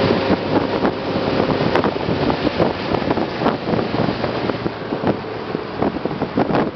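Boat under way: wind buffeting the microphone over the rush of water past the hull, with frequent irregular jolts.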